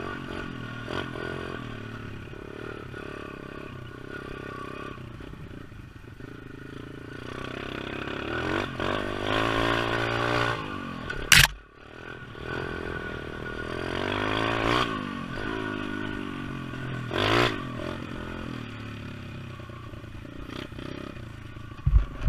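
Pit bike's small single-cylinder engine revving up and falling back over and over as it is ridden. A sharp knock comes about eleven seconds in and a heavy thump near the end.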